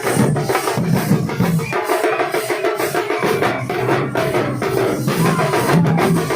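Nasik dhol band drumming a fast, driving rhythm on dhol drums, with sharp higher strokes and ringing metal over the top. The deep dhol beats drop out for about a second and a half near the start, then come back in.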